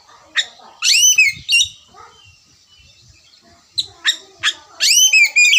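Oriental magpie-robin (kacer) singing: sharp whistled notes and quick rising and falling phrases in two bursts, one about a second in and a louder, fuller one from about four seconds in.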